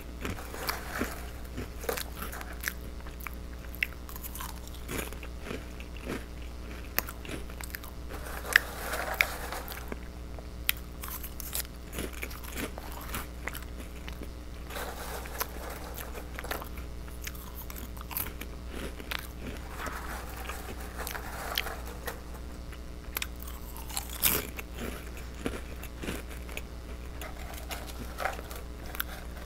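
Close-miked chewing of small crunchy fish-shaped cheese crackers: many sharp crunches with wetter mouth sounds between them, over a steady low hum.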